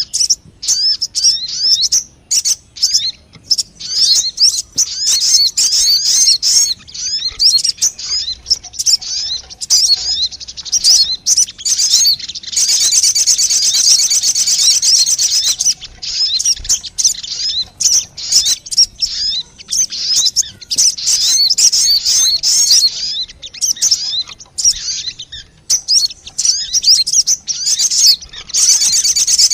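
Sogon birds calling, as a lure recording: dense, rapid, high-pitched chirps and twittering in runs with short gaps.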